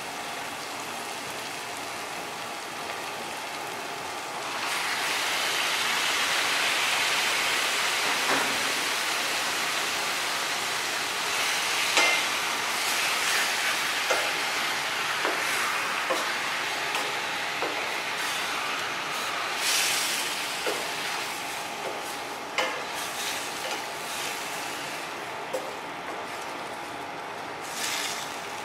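Garlic, onion, tomato and whole squid sizzling in a stainless steel frying pan. The sizzle grows louder about four seconds in. A wooden spatula stirs throughout, with scattered knocks and scrapes against the pan.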